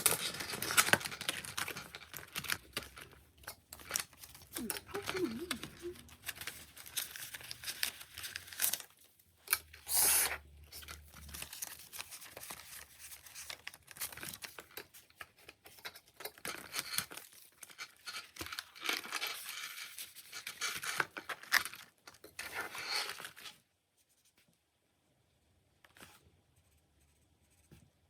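Paper and plastic rustling and crinkling in irregular bursts as cash-budget envelopes and sheets are handled, with one louder brief rustle about ten seconds in; it stops about five seconds before the end.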